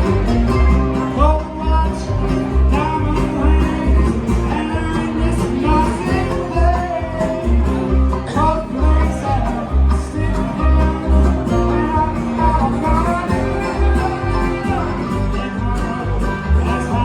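Bluegrass band playing, with banjo and guitar over a steady bass beat.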